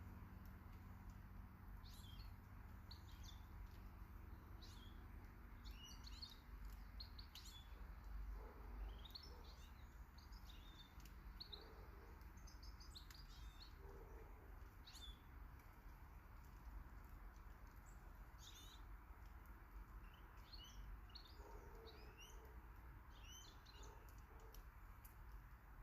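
Faint chirps and tweets of small garden birds, short high calls repeating irregularly throughout, over a low steady background rumble.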